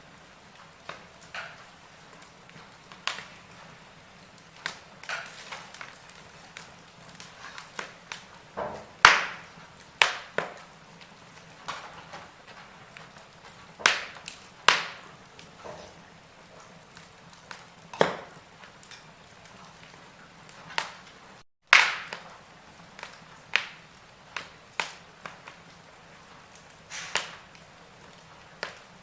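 Wood fire burning in a fireplace, crackling with irregular sharp pops over a faint hiss; the loudest pops come about nine seconds in and again past twenty seconds.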